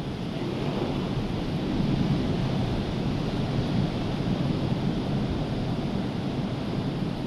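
Rough, hurricane-stirred sea surf rushing steadily, swelling louder about two seconds in.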